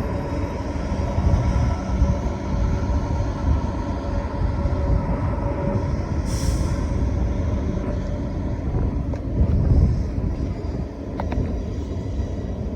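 Electric or diesel passenger train running at a station with a steady low rumble and faint steady whining tones. A short hiss of air, typical of an air brake release, comes about six seconds in.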